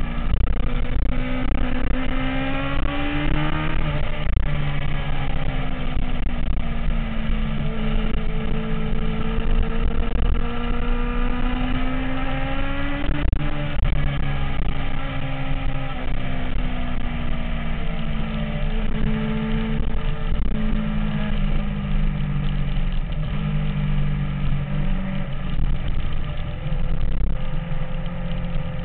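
MV Agusta F4's inline-four engine running steadily under way, its pitch rising and falling gently and slowly over several seconds, over a constant low rumbling noise.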